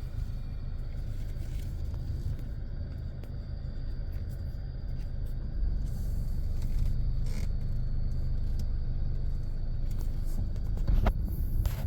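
Car engine idling, a steady low rumble heard from inside the cabin, with a couple of sharp clicks near the end.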